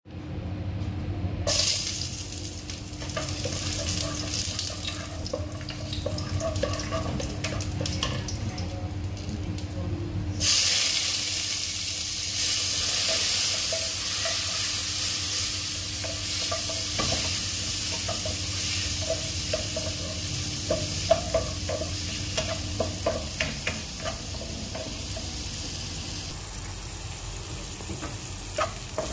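Prawns and garlic frying in oil in a wok. The sizzle starts about a second and a half in and gets louder about ten seconds in, and a spatula scrapes and taps the pan in the later part. A steady low hum runs underneath.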